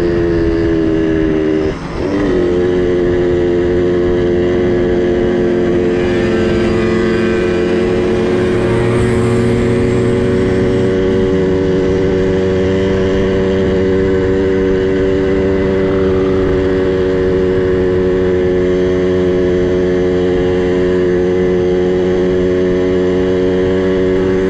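Small two-stroke minibike engine running under way. Its pitch falls over the first couple of seconds, with a brief drop in loudness just before two seconds in, then holds at a steady speed.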